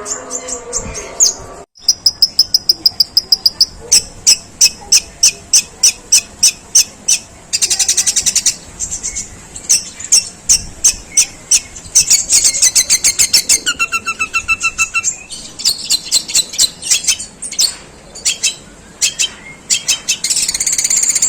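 Long-tailed shrike singing a long, harsh run of mimicked tree sparrow chirps: rapid trains of sharp high chips, broken by a brief steady whistle, a buzzy trill and a few two-note calls.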